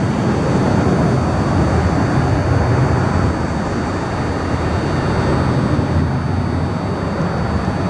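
Boeing 737 jet airliner's engines, a steady loud rumble that holds level without rising or falling sharply.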